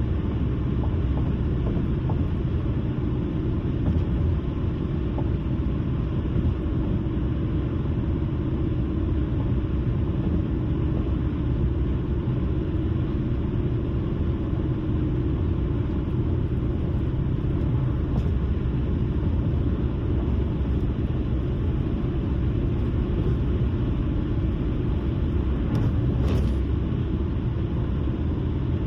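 Steady road noise from a car driving along: tyre and engine rumble, low and even, with a faint brief click near the end.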